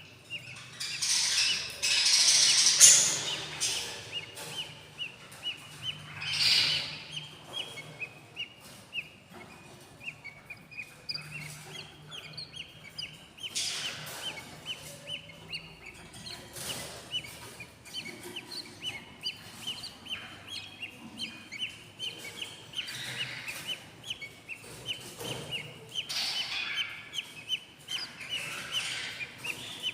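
Day-old-week budgie chicks, about eight days old, chirping in a fast, steady run of short begging calls, the sound of hungry nestlings. Louder noisy bursts break in now and then, the strongest between about one and three seconds in.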